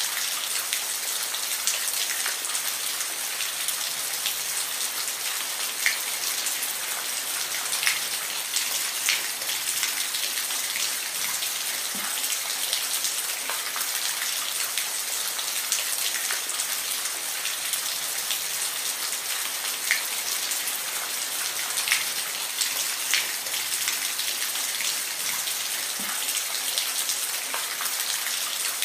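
Steady rain falling, an even hiss with individual drops ticking sharply here and there on a hard surface.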